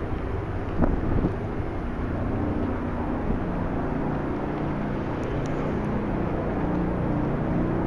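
Steady city street traffic rumble with vehicle engines running, broken by two short knocks about a second in.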